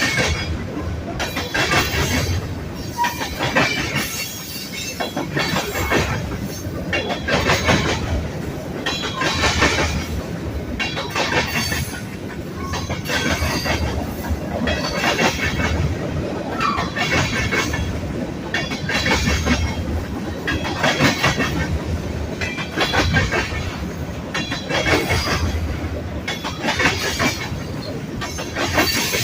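Freight cars of a manifest train rolling past, their wheels clacking over the rail joints in a burst every second or two, with a couple of brief wheel squeals.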